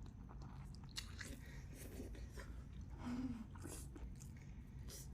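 A person chewing and crunching lobster mukbang-style, with scattered sharp cracks and a short low hum about three seconds in.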